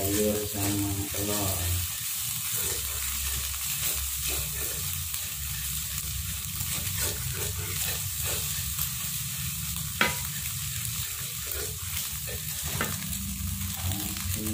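Rice porridge with egg, shredded chicken and spring onion sizzling in a nonstick wok while a spatula stirs and scrapes it around the pan. There is a sharp knock about ten seconds in.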